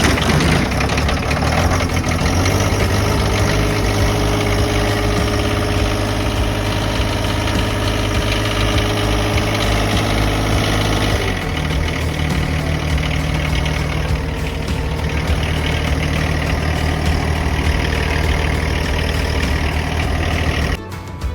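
Old John Deere tractor engine running steadily at idle; its note changes about halfway through.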